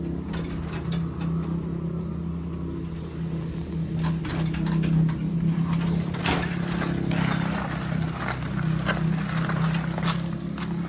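An engine running at a steady pitch, with scattered clicks and knocks from about four seconds in.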